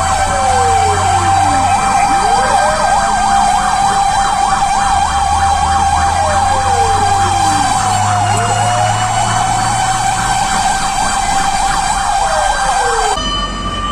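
Fire truck sirens sounding together: a steady high tone with a fast warbling yelp over it, and a lower tone that sweeps down and back up twice. They cut off suddenly near the end.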